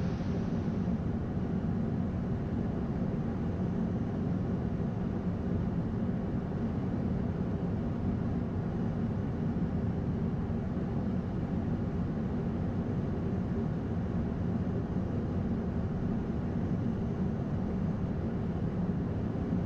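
Steady flight-deck noise of an Airbus A220-100 on final approach: airflow and engines at approach power make a constant, even rumble.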